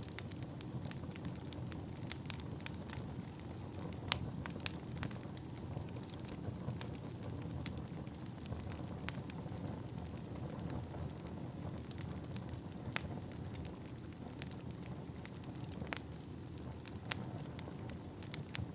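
Wood fire burning in a fireplace: a steady low rush of flames with frequent sharp crackles and pops from the burning logs. The loudest pop comes about four seconds in.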